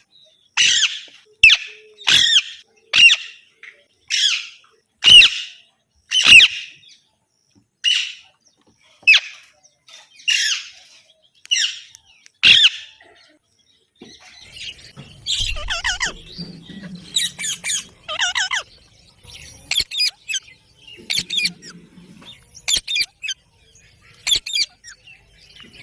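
Pet green parakeets screeching: a series of sharp, loud squawks about one every half-second to second for the first half, then a busier mix of shorter squawks and chattering calls.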